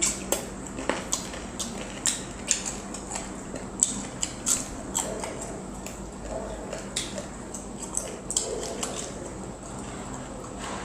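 Close-up eating sounds of a person chewing chicken and rice: irregular wet chewing and lip-smacking clicks.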